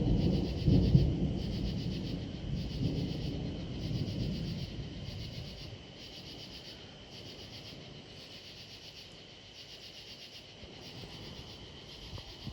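Thunder rumbling loud and low, dying away over the first half. Behind it, insects chirp in a steady rhythm of about one pulse a second.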